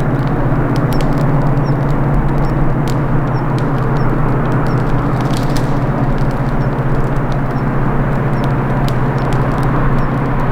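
GT26CW diesel-electric locomotive's EMD two-stroke V16 diesel working at full notch, a steady deep drone, mixed with the sharp crackles and pops of twigs burning in a campfire.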